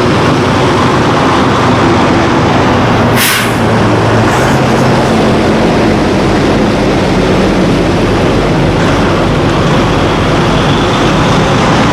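Diesel semi-truck traffic running steadily past, with a short sharp hiss about three seconds in.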